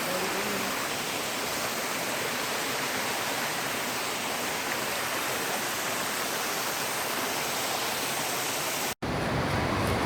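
Steady rush of water, an even hiss with little bass, cutting off abruptly about nine seconds in.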